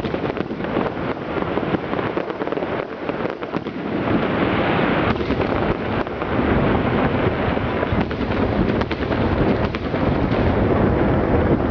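Large aerial fireworks display: a dense, continuous crackle of many small pops over rumbling bursts, growing louder about four seconds in.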